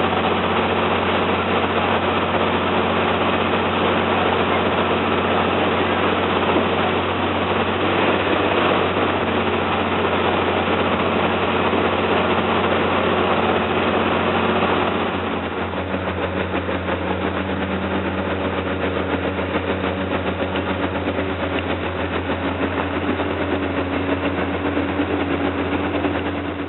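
Engine of a Mekong slow boat running with a steady low hum. About halfway through, the sound changes and turns a little quieter, with less hiss on top of the low hum.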